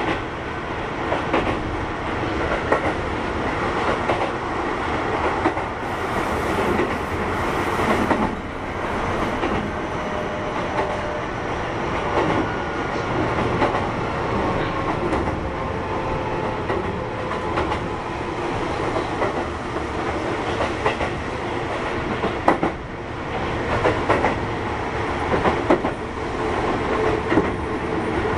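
Keihan 13000 series electric train running between stations, heard from on board: a steady rumble of running noise with the wheels clicking over rail joints every few seconds.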